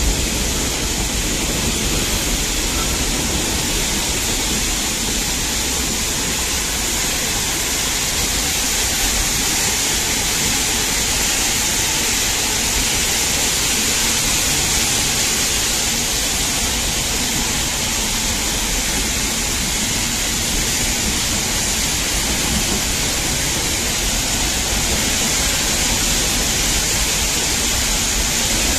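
Nilgiri Mountain Railway toy train running, heard from on board as a steady rushing noise with a strong hiss and a low rumble, without distinct rail clicks.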